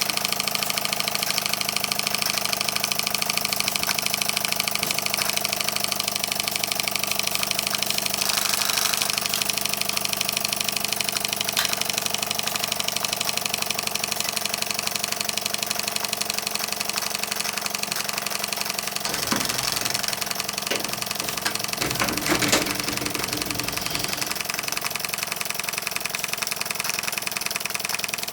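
Tiny governor-controlled model steam engine running steadily on steam with a fast, even beat, on falling boiler pressure near its lowest running pressure of about 2 psi.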